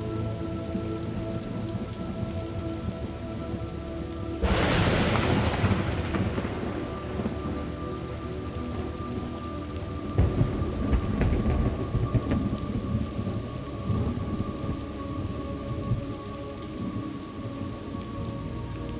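Steady rain with thunder: a sharp thunderclap about four seconds in that crackles and fades over a couple of seconds, then low rolling rumbles.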